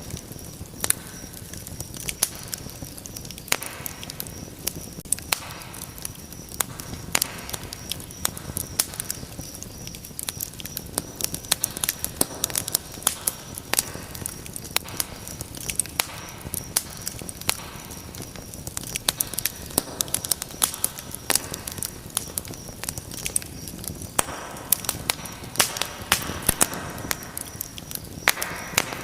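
Fire burning in a fireplace, crackling: irregular sharp pops and snaps over a low steady hiss of flame, with a few soft rushing swells.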